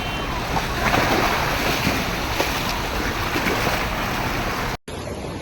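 Floodwater rushing and splashing, with wind buffeting the microphone. Near the end an abrupt cut switches to a second, quieter recording of the same kind of water noise.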